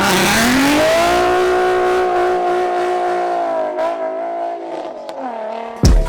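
Car engine revved up over about a second, held at steady high revs for a few seconds, then dropping back down. A loud knock comes near the end.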